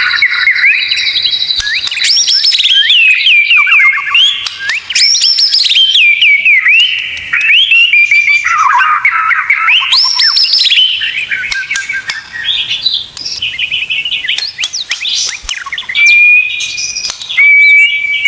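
White-rumped shama (murai batu) singing a loud, fast, varied song of rising and falling sweeps and trills, finishing with two long steady whistles near the end.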